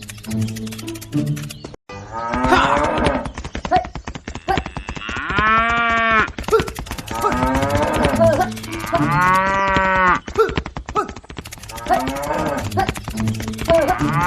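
A cow mooing three times, about every four and a half seconds, each call starting rough and swelling into a long drawn-out moo. A short bit of music is heard before the first moo.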